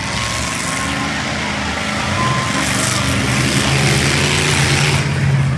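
A vehicle engine running under wide noise, getting louder over the second half and dropping away at the very end.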